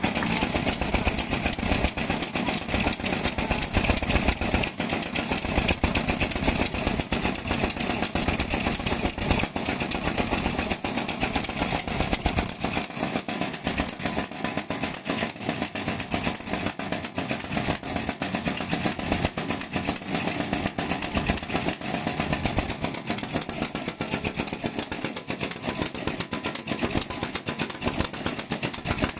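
Vintage stationary engine (a Japanese kerosene-type 'hatsudoki') running steadily, with a rapid, even firing beat throughout.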